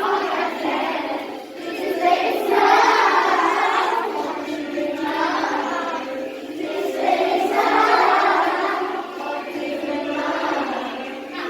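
A group of children singing together in unison, in long swelling phrases.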